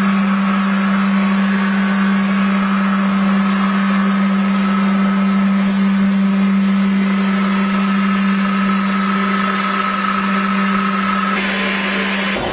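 Powder packaging machine running with a steady low hum and a faint whine and hiss over it; the hum cuts off near the end.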